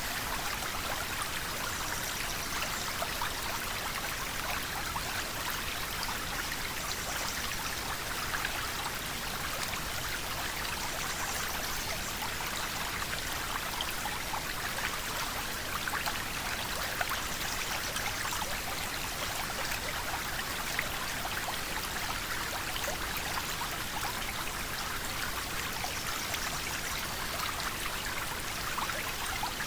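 River water flowing steadily, a continuous rushing with many small splashes and trickles.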